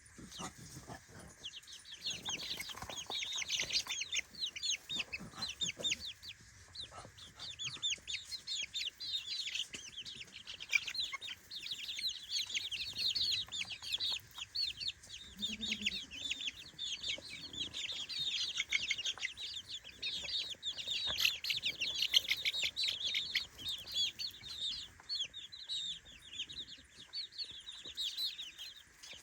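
A brood of three-week-old chicks peeping continuously: many high, short, falling chirps overlapping each other, thinning out slightly near the end.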